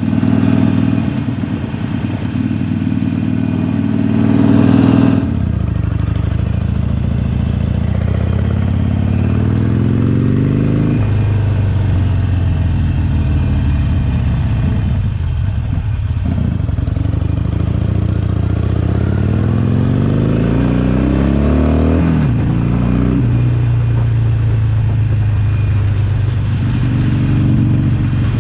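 Harley-Davidson Sportster Forty-Eight's 1200 cc V-twin running through a Jekill & Hyde valved exhaust, heard while riding. About five seconds in there is a brief loud rush of noise. The engine then twice pulls up steadily in revs, dropping back at each gear change, and runs steadily in between and near the end.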